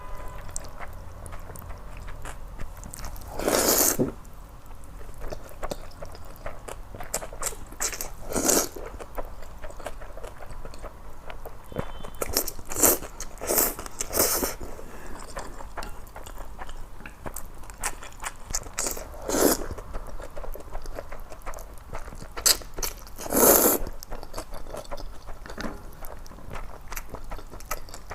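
Close-up eating of noodles: a short, loud slurp every few seconds, with chewing and small mouth clicks in between.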